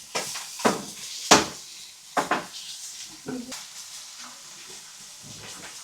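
Kitchen utensils clattering and knocking against a cooking surface: half a dozen sharp knocks, the loudest about a second and a half in, over a faint sizzle.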